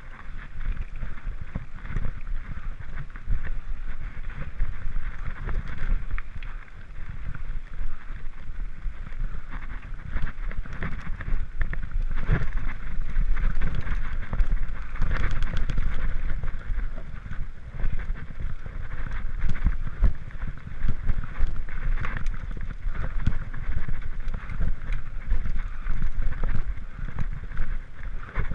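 Mountain bike being ridden over a rocky trail, the bike rattling and knocking over rocks, with wind rumbling on the microphone.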